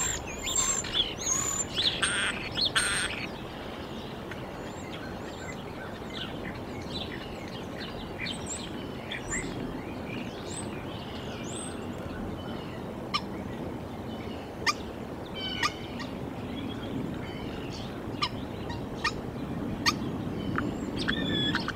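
Wild birds calling outdoors: a burst of louder, harsh calls in the first three seconds, then scattered short chirps and sharp single high notes over a steady low background hiss.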